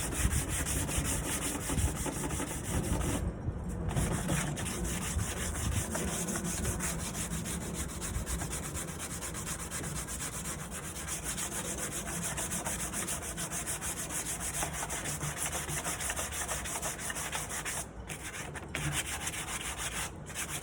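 Sandpaper rubbed by hand over the wood of a nightstand in continuous back-and-forth strokes, pausing briefly about three seconds in and again near the end.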